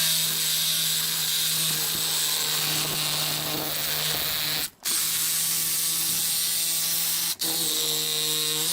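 A steady mechanical whir with a constant low hum and a hiss, cut off abruptly for a moment twice, about halfway through and again near the end.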